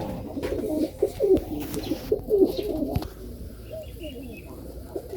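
Serbian highflyer pigeons cooing, many overlapping coos in the first three seconds, thinning out after, with a few sharp knocks in between.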